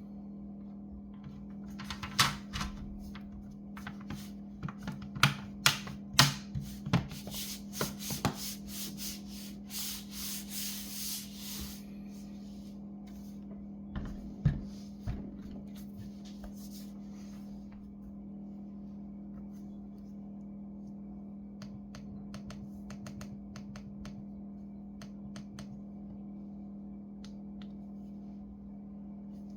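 Hands working on a laptop with small tools and parts during a battery replacement: scattered clicks and taps, loudest between about two and nine seconds in, then a rubbing, scraping stretch around ten to twelve seconds, with a few more clicks after, over a steady low hum.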